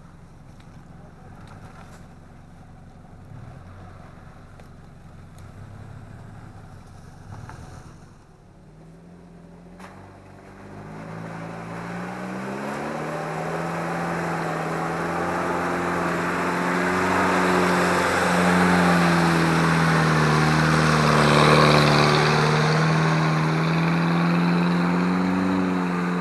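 An off-road 4x4's engine revving hard under load as it works through a deep muddy rut. Faint at first, it grows much louder from about nine seconds in, its pitch wavering up and down.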